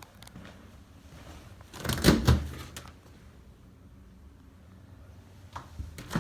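A door being opened and shut: a cluster of loud knocks and a rattle about two seconds in, then two short clicks near the end.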